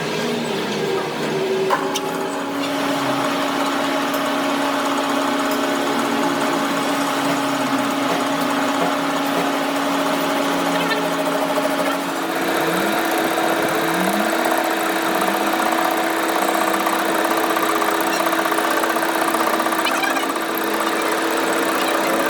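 A workshop machine running steadily, its motor hum stepping up slightly in pitch about twelve seconds in, with a dense hiss of cutting or grinding over it.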